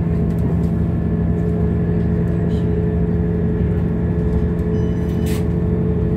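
Passenger train running, heard from inside the carriage: a steady rumble with a constant low hum, and a short click about five seconds in.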